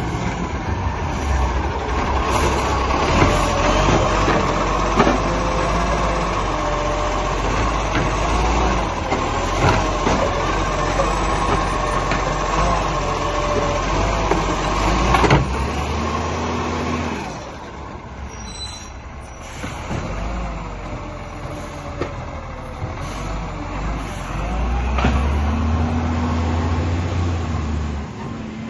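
Garbage truck at work: the engine runs loud and high with wavering mechanical tones and several sharp knocks and clatters, drops to a lower running level after about seventeen seconds, and rises again with a heavy low rumble near the end.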